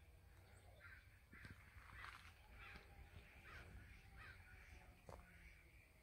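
A bird giving a run of about six harsh, faint calls, evenly spaced.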